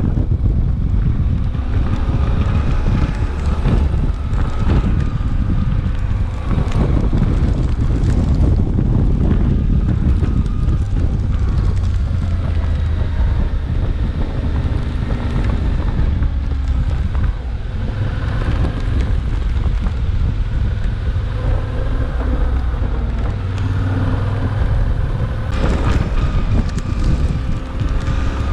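Suzuki V-Strom 800DE's parallel-twin engine running under way, its pitch rising and falling repeatedly with throttle and gear changes, beneath heavy wind rumble on the microphone.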